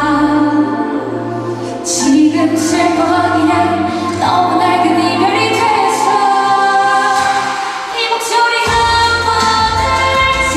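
Female vocalist singing a Korean pop song live over its accompaniment. The low bass drops away about a second and a half in and comes back in near the end.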